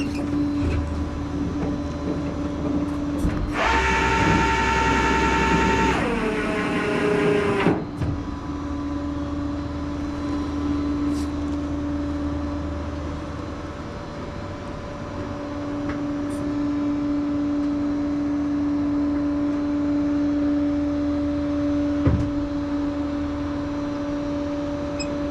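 Steady hum and low rumble of a truck being driven, heard from inside the cab. About three and a half seconds in, a loud pitched whine starts, drops in pitch a couple of seconds later and cuts off about eight seconds in.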